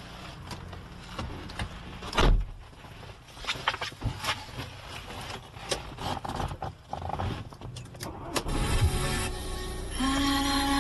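Scattered clicks and knocks of a car being handled, with one heavier thud about two seconds in, then a steady low hum near the end.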